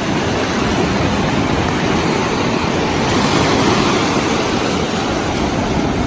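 Ocean surf washing in around the surfers, a steady rush of wave noise without a break.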